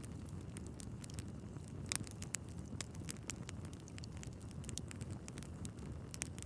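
Wood fire crackling in a fireplace: a low steady rumble of flames under frequent irregular pops and snaps from the burning logs. There is a louder pop about two seconds in and another near the end.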